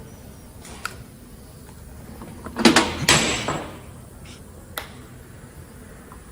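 Handling sounds from pressing a rubber boot onto an air-disc brake caliper: a light click about a second in, a louder knock and scrape lasting about a second near the middle, and another sharp click a little later.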